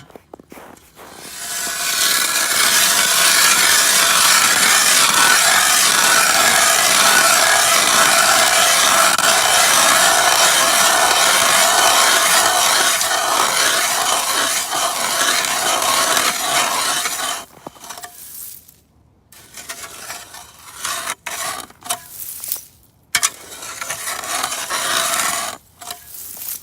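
Ice drill with an auger boring a hole through lake ice: a steady grinding rasp that stops about seventeen seconds in. Short, irregular scrapes and knocks of ice follow.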